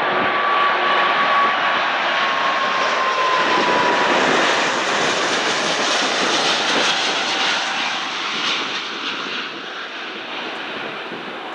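Airbus A340-600's four Rolls-Royce Trent 500 jet engines running as the airliner comes in to land and passes by: a loud jet noise with a whine that drops a little in pitch about three seconds in, fading over the last few seconds.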